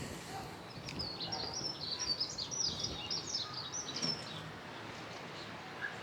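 A songbird singing: a quick jumble of short high chirps for about three seconds, over a faint steady background hiss.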